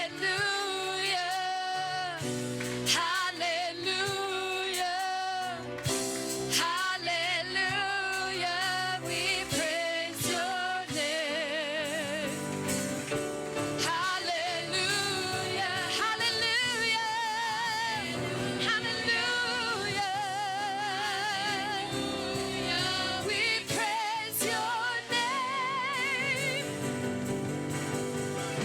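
Gospel-style worship song: singers holding notes with vibrato over instrumental accompaniment.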